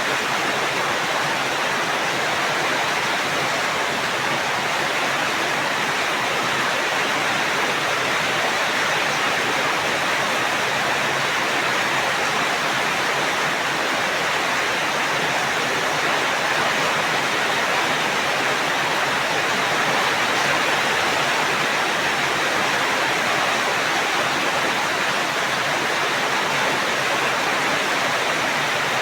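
Steady heavy rain, a dense even hiss of falling water with no distinct drops or thunder.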